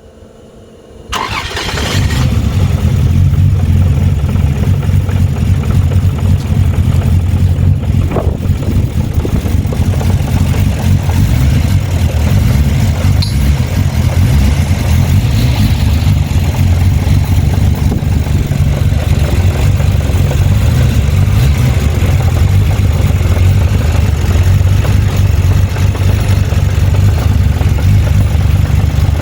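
Toyota 2JZ straight-six starting about a second in, then running steadily. This is a first start on a new MaxxECU with nothing tuned yet: the air-fuel ratio is far off and the injectors are not calibrated.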